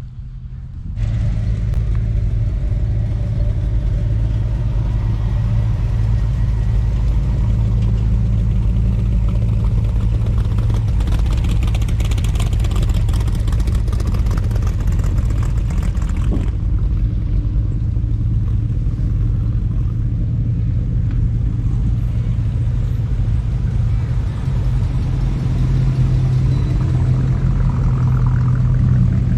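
A motor vehicle's engine running steadily, a low, even rumble that starts suddenly about a second in and holds without revving.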